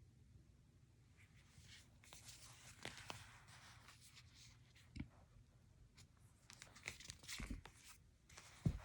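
Paper and book handling: faint, scattered rustling and crinkling of pages, with a few soft low knocks, the loudest just before the end.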